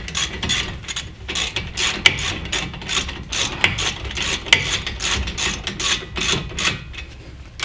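Socket ratchet wrench clicking in quick, uneven runs as bolts on a front brake assembly are tightened.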